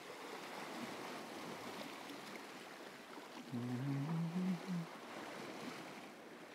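Steady wash of the sea along a rocky shore, with a short low hummed or played tune in the middle.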